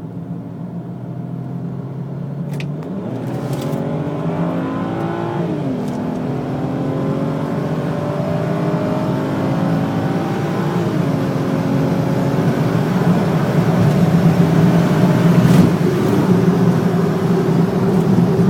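BMW E90 335i tuned with a JB4 on map 1 (about 10 psi of boost) accelerating at full throttle, heard from inside the cabin. The engine note climbs in pitch through each gear and drops at the automatic upshifts, about 6, 11 and 15 seconds in.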